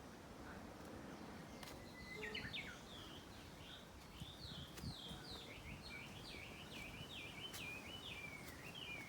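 A songbird singing a long, quick series of high chirping notes, starting about two seconds in, faint over a soft outdoor background hiss.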